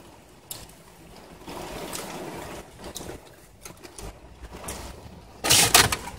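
Heavy rain falling on the car, a steady wash of noise with scattered small clicks, and a louder rustling burst about five and a half seconds in.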